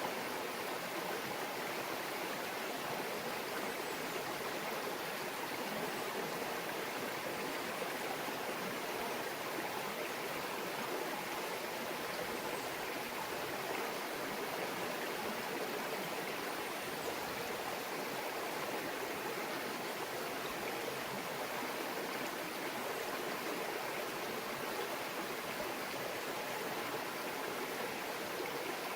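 A small brook babbling steadily, an even rush of running water.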